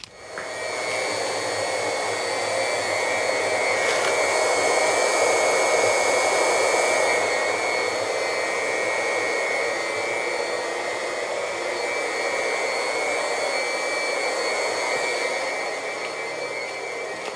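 Small electric motor switched on abruptly and running steadily with a high whine over a rushing hiss, used to drain the old water heater; it eases off slightly near the end.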